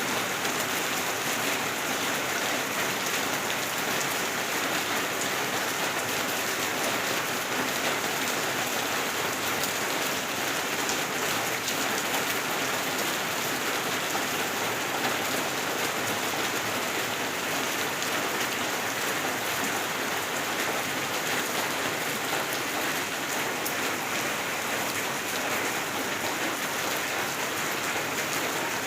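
Steady rain falling and drumming on surfaces, a dense, continuous hiss of drops with no letup.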